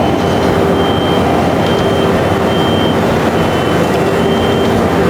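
Komatsu PC1250 demolition excavator running steadily at work, a loud, even machine noise with a thin high tone that comes and goes.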